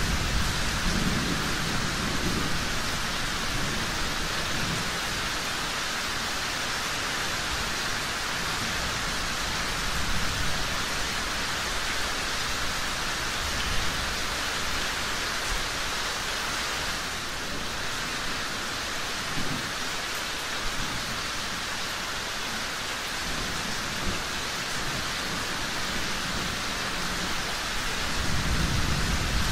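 Steady rain, with low rolls of thunder swelling near the start and again near the end.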